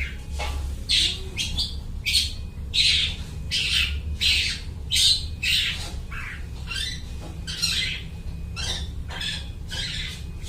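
Long-tailed shrike giving a run of harsh, rasping squawks, about one or two a second, over a low steady hum.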